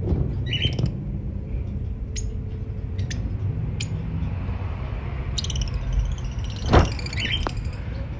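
Birds chirping and squawking in short high bursts: once about half a second in, and again in a busier cluster near the end. A few sharp clicks come in between, and a steady low rumble runs underneath.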